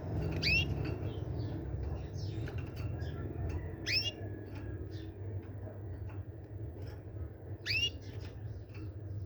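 Small birds chirping, with three louder sweeping calls spaced about three and a half seconds apart among many short faint chirps, over a steady low rumble.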